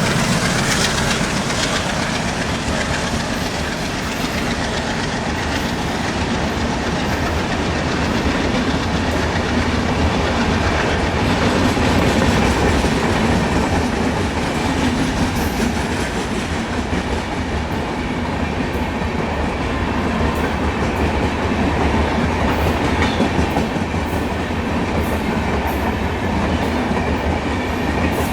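A passing train's coaches rolling by, wheels clattering over the rail joints in a steady, loud rush of noise.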